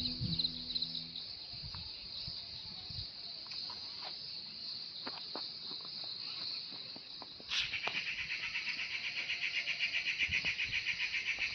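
Insects calling in a steady high-pitched chirr, with scattered faint clicks. About seven and a half seconds in, a louder insect call with a fast, even pulse starts up and keeps going.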